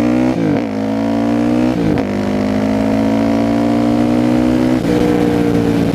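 Yamaha WR450F single-cylinder four-stroke supermoto engine accelerating hard through the gears, its pitch climbing and dropping at upshifts about half a second and two seconds in, then pulling steadily with another shift near the end. It runs loud through an FMF slip-on exhaust whose packing is blown out.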